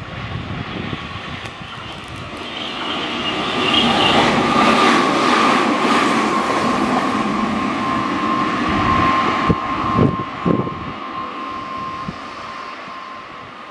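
Meitetsu electric train running through the station. The running noise builds and peaks about four to seven seconds in, with a steady high whine held for several seconds. Near the ten-second mark the wheels clunk quickly over rail joints, and then the sound fades as the train moves away.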